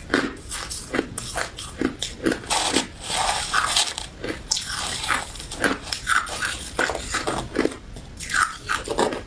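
Close-miked crunching and chewing of a crystal ice dessert with jelly pieces: rapid, crackly bites several times a second, thickest in the middle.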